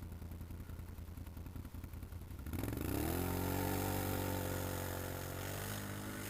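ATV engine idling low, then revved hard about two and a half seconds in and held at high revs for about three seconds before easing slightly, as the rider tries to power through deep snow.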